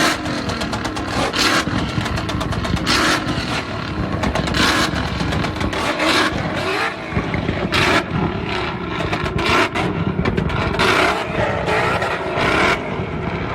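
Loud car engine noise with repeated revving surges, rough and uneven throughout.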